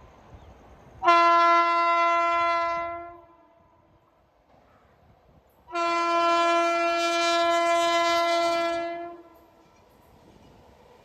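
Indian Railways locomotive horn sounding two long blasts on one steady pitch, the second longer than the first.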